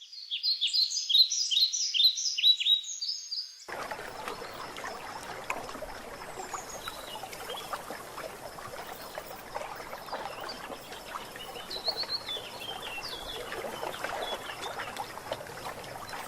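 A songbird singing a fast run of repeated, down-slurred chirps. It cuts off abruptly about four seconds in and is replaced by a steady hiss with scattered ticks and crackles, with a few faint bird chirps over it.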